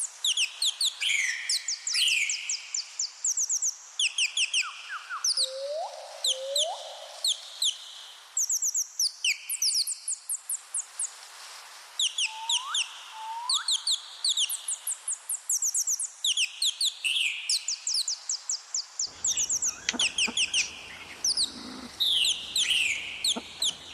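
Small birds chirping: quick runs of short, high, falling notes repeated in series, with a few short rising whistles among them.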